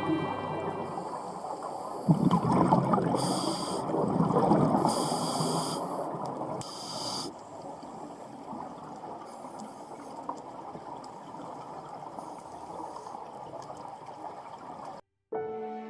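Water noise that surges and is loudest for the first several seconds, with a few short high hisses, then goes on more quietly.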